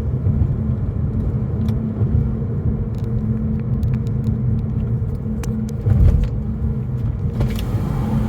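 Car cabin noise while driving: a steady low rumble of engine and tyres with a constant hum, swelling briefly about six seconds in, and a few faint clicks.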